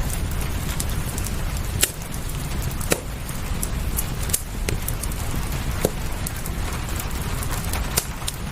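Wood fire crackling, with a few sharp pops a second or more apart, over a steady rain hiss and low rumble.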